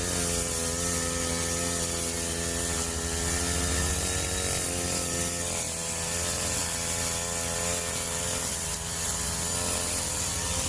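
Two-stroke grass trimmer engine running steadily.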